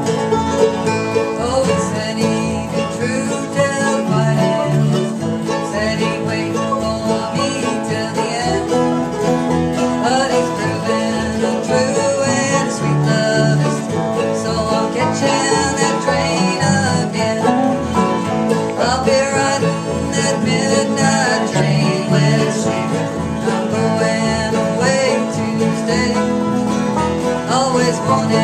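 Instrumental bluegrass: a banjo and an acoustic guitar playing a fast, continuous picking passage with no singing.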